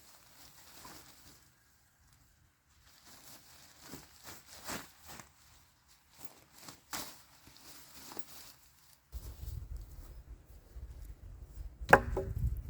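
Scattered light rustling and crunching, like steps and handling on the forest floor, then a low rumble comes in and a single sharp chop into wood near the end, the loudest sound.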